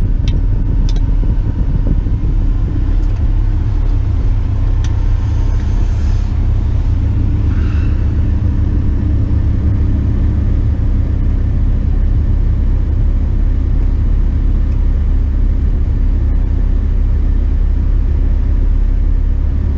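Tipper truck's diesel engine running steadily, a continuous low rumble.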